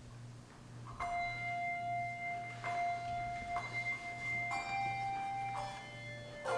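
Handbells ringing single notes one after another, about one a second, each left to ring on, starting about a second in; near the end several bells sound together as a chord.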